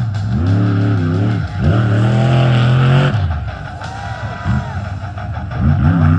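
Monster truck engine revving in repeated bursts, its pitch rising and falling several times, under background music.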